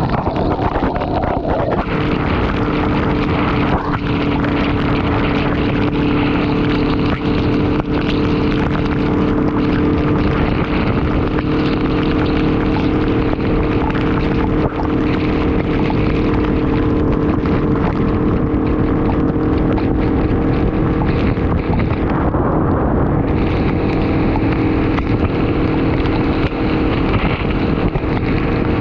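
Honda VFR800 V4 motorcycle engine running at a steady cruising speed, its pitch holding level, with heavy wind noise on the microphone.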